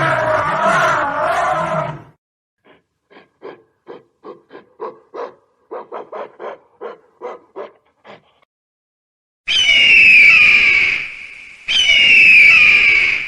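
A sequence of animal calls: one loud long call, then a string of short calls about two a second, then two loud, high calls a second or so apart, each sliding down in pitch.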